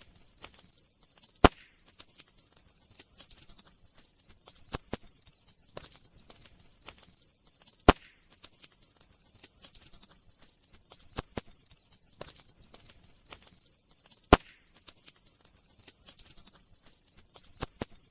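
Campfire crackling: scattered small snaps over a faint high hiss, with three sharp, much louder pops evenly spaced about six and a half seconds apart.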